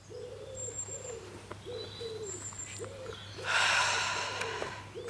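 A pigeon cooing in a repeated series of low notes, with faint high chirps from small birds. A brief rush of noise comes about three and a half seconds in.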